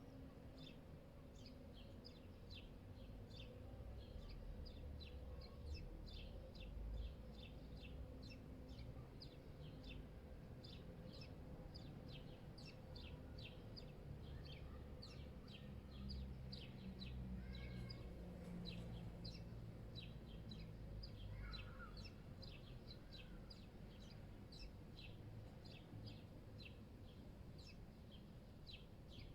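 Small birds chirping steadily, short high chirps a few times a second, with a few lower calls partway through, over a faint low city rumble.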